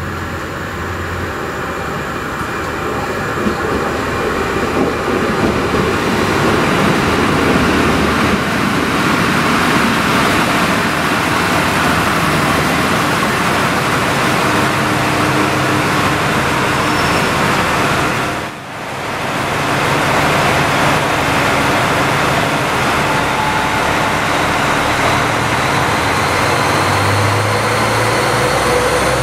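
Northern Ireland Railways CAF diesel multiple unit running into the platform, its engines and wheels on the rails growing louder over the first several seconds into a steady rumble. After a brief dip about eighteen seconds in, another unit runs at a platform, with a low engine note coming up near the end.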